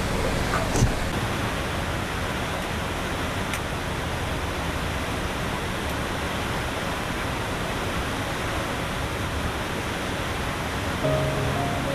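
Heavy rain pouring down as a steady, even hiss. Piano music starts faintly about eleven seconds in.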